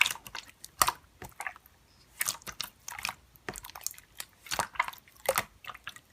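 Hands squishing and pressing slime, making irregular sticky clicks and pops, a few a second.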